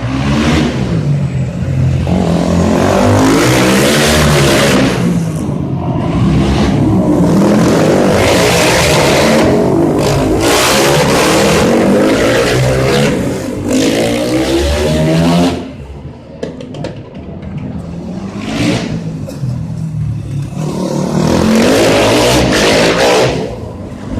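250 cc motorcycle engines revving hard, the pitch climbing and dropping again and again as they accelerate and shift. The sound eases off about two-thirds of the way through, then rises loud again near the end.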